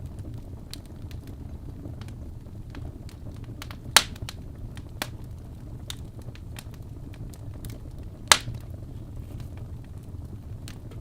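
Wood logs burning in a fireplace: a steady low rumble of flame with scattered faint crackles and two loud sharp pops, about four and eight seconds in.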